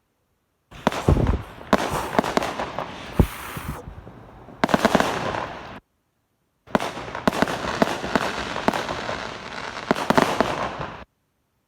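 Fireworks going off: a dense run of sharp cracks and bangs with crackle, and a couple of deep thumps. The sound stops dead twice.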